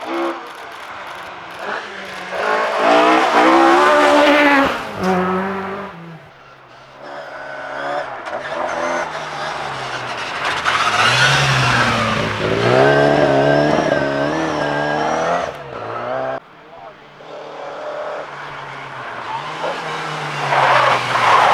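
Classic rally cars driven flat out on a stage, engines revving hard and rising and falling in pitch through gear changes as they pass, in several separate runs.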